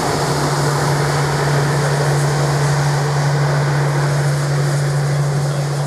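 Jet airliner engines running loud and steady, with a constant low hum under a broad roar.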